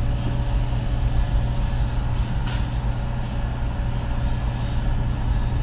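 Steady low hum of a car engine running, heard from inside the car.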